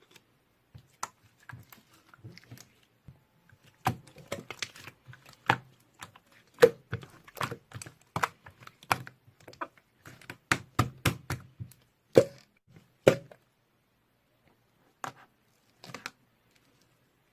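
Irregular taps and clicks at close range, coming in quick uneven runs through the middle and a few single taps near the end.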